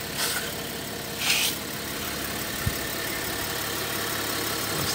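Car engine idling steadily, a low even hum, with two brief hissing rustles in the first second and a half and a single low knock a little past the middle.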